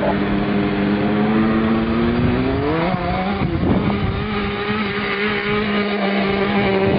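Small kids' motocross bike engine held at high revs, ringing hard. Its pitch climbs slowly, dips and wobbles about three and a half seconds in, then holds steady again.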